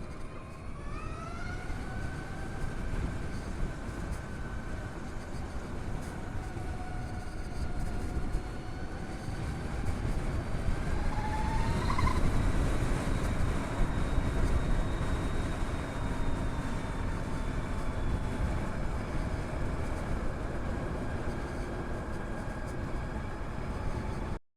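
Harley-Davidson LiveWire electric motorcycle on the move: the electric drivetrain's whine rises in pitch about a second in as it speeds up, then drifts up and down with road speed. Steady wind rush on the chin-mounted helmet camera runs underneath.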